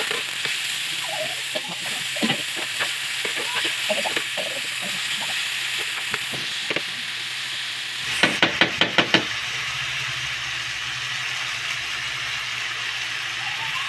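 Chopped chicken breast and onion sizzling in hot oil in a frying pan, stirred with a spatula that scrapes and clicks against the pan. About eight seconds in comes a quick run of half a dozen sharp knocks.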